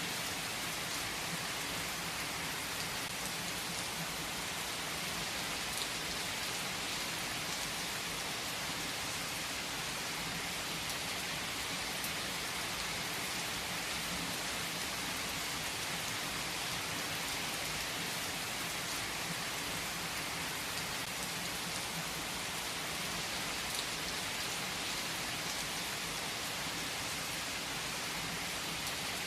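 Steady rain falling, an even hiss with no letup, with a few faint drop ticks here and there.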